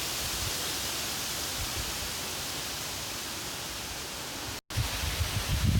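Steady rushing of wind through foliage. After a brief dropout about four and a half seconds in, gusts buffet the microphone with irregular low rumbles.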